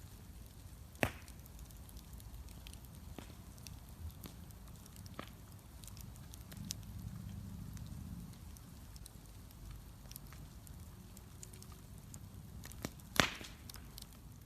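Wood bonfire crackling, with scattered small pops and two loud sharp snaps, one about a second in and one near the end.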